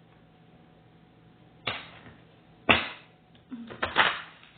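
Tarot cards being handled: sharp card slaps or swishes, one less than two seconds in and a louder one near the middle, then a quicker run of them near the end.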